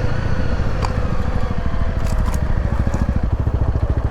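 Motorcycle engine running at low revs with a steady stream of firing pulses, its exhaust chugging as it crawls along. A few sharp clicks or scrapes sound over it.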